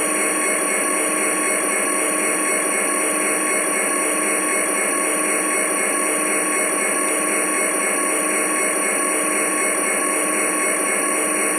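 Model train running on the layout: a steady whine and hiss from its small electric motor and gearing, with several fixed tones and no change in speed.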